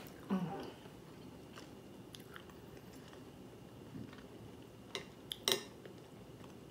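A person chewing chewy rice cakes. Now and then come short sharp clicks of metal chopsticks against a ceramic plate, the loudest a little after five seconds in.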